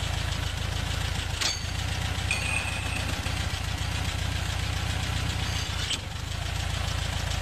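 Air-cooled Volkswagen flat-four engine idling steadily, with a short click about a second and a half in and a brief high whine a little after.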